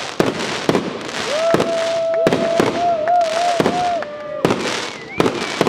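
Fireworks display: a rapid series of sharp bangs over constant crackling. A wavering whistle is held for a couple of seconds through the middle.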